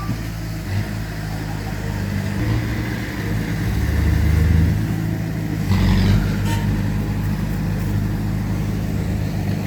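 Heavy diesel earthmoving machinery running, the engine note swelling briefly about four seconds in, with a clattering knock near six seconds.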